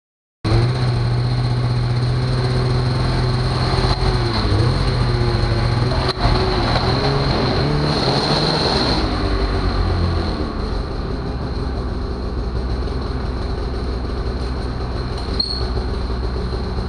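Snowmobile engine running at a steady pitch while riding, with a steady high whine and the clatter of the track; the pitch steps down a little a few times.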